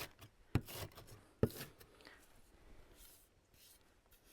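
Knife chopping an onion on a cutting board: three sharp knocks in the first second and a half, then it goes quieter.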